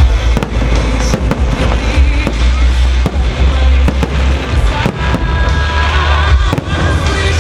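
Fireworks going off in many sharp, irregular bangs over loud music with a deep bass.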